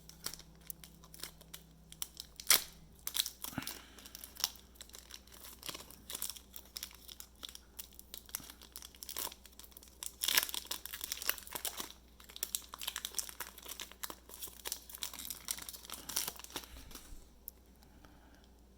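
Foil wrapper of a trading-card pack crinkling and tearing open while the cards are handled, a long run of irregular sharp crackles and snaps that dies away near the end.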